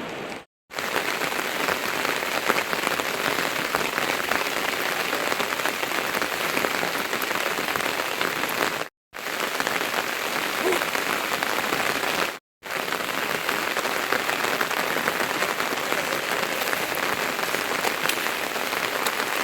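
Steady rain falling, a dense patter of drops striking a surface. The sound cuts out abruptly for a moment three times.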